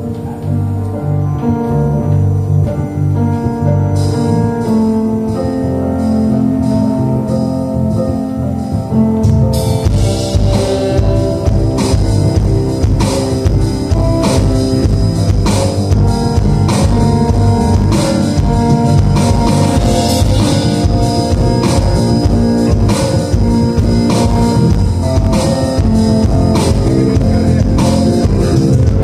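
Live band playing an instrumental passage. It opens with keyboard and guitar chords, then drums and bass come in about ten seconds in with a steady beat.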